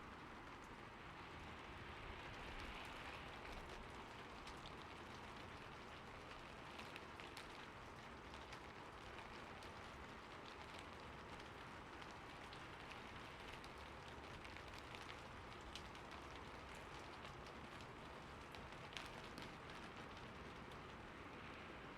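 Faint steady rain, with scattered individual drops ticking sharply on a surface.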